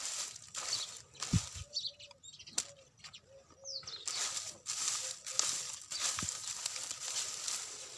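Birds' wings fluttering over and over, with a few short bird calls in the middle.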